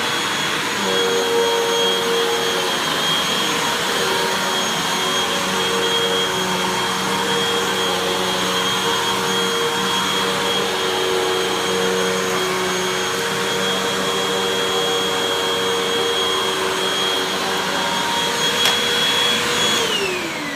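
Hoover WindTunnel 2 Rewind Pet upright vacuum running steadily on carpet, a constant high whine with a hum that wavers as it is pushed. Near the end it is switched off and the whine falls away as the motor spins down.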